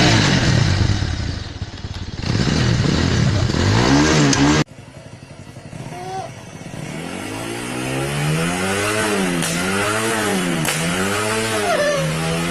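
Bajaj Pulsar 180's single-cylinder engine being revved hard, dipping briefly about two seconds in. After an abrupt cut it runs quieter, then is blipped over and over, the revs rising and falling about once a second, with a few sharp exhaust pops (backfire crackle) near the end.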